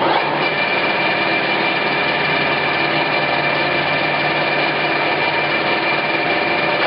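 Clausing Colchester 17 x 80 engine lathe (model 1780) running at a newly selected spindle speed: the spindle and chuck come up to speed right at the start and then run steadily, with a constant high gear whine over the mechanical clatter of the headstock.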